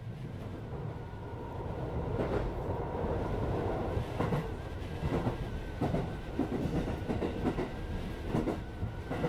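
Running sound inside a JR West 205 series electric commuter train: steady rumble and hum with irregular clacks of the wheels over the rails, growing a little louder after about two seconds.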